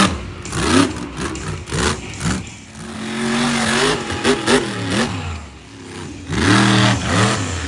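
Monster truck engine revving hard in repeated throttle blips, its pitch climbing and dropping again and again. There is a longer held rev in the middle and another quick run of revs near the end.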